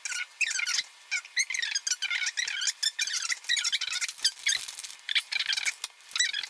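Small birds chirping and chattering rapidly and without a break, many short high calls a second.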